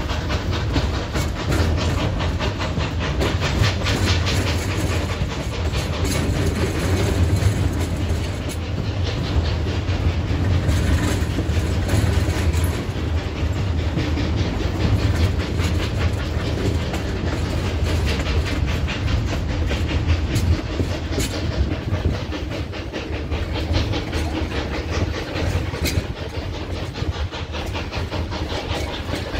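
Narrow-gauge steam train's coaches rolling along the track, heard from aboard: a steady low rumble with wheels clicking over the rail joints.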